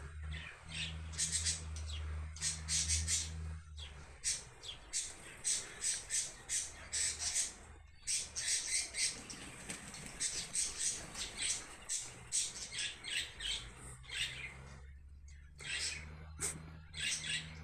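Wild birds calling: a busy run of short, sharp, high squawks and chirps that repeat throughout, over a low steady hum.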